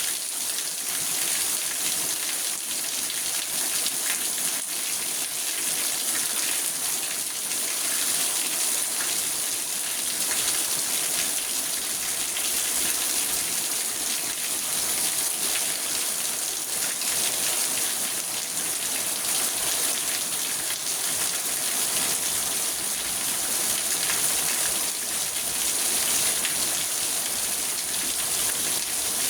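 Steady rain falling on a car, heard from inside the cabin as an even patter on the roof and windows.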